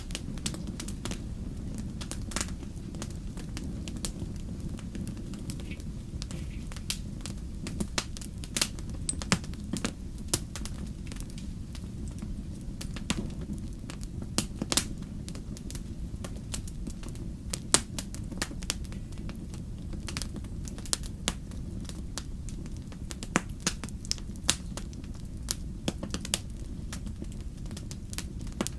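Wood fire burning in a fireplace: a steady low rumble with irregular sharp crackles and pops, several a second, a few louder snaps scattered through.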